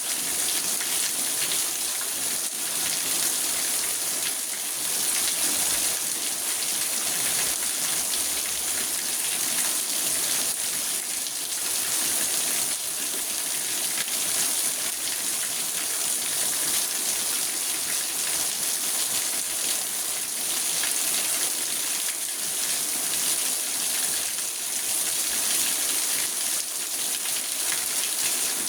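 Steady rain falling on a car, heard from inside the car: a dense, even patter of drops.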